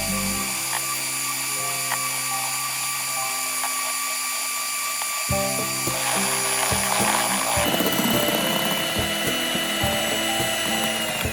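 Background music with held notes over the steady whir of a small electric motor, whose pitch shifts partway through and winds down near the end.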